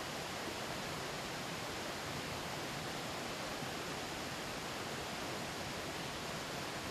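Steady rush of a mountain stream flowing over rocks, an even wash of water noise with no breaks.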